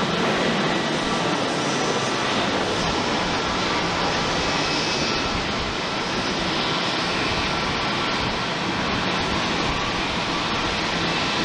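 Jet airliner's engines running with a steady roar, a Boeing 737-800 with CFM56-7B turbofans. The noise holds level throughout, with no clear rise or fall.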